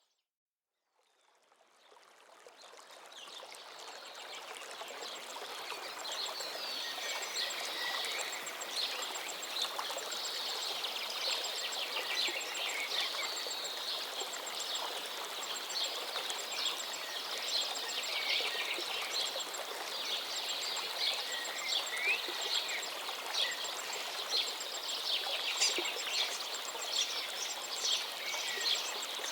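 Many small birds chirping and singing over the steady rush of a flowing stream. The sound fades in from silence over the first few seconds.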